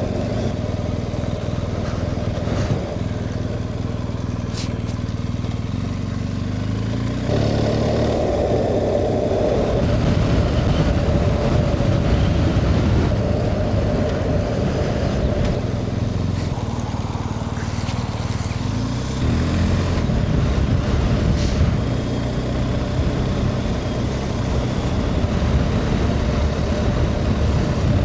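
BMW R 1250 GS boxer-twin motorcycle engine running while riding, with wind rush; the engine note changes with throttle and gear, louder from about seven seconds in and rising again around two-thirds of the way through.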